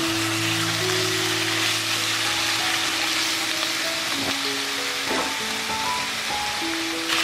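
Food sizzling as it cooks, a steady hiss, under soft background music with slow held notes.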